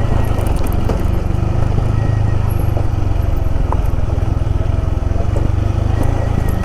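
Motorcycle running at low speed on a rough, uneven road, its engine and the ride making a steady low rumble.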